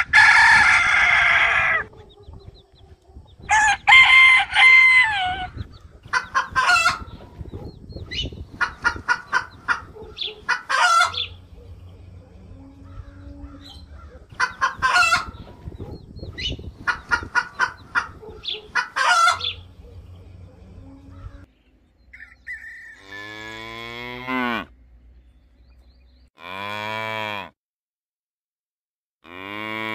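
Rooster crowing twice, then chickens clucking in short, repeated bursts. About 22 seconds in, cattle take over, mooing three times in long, low calls.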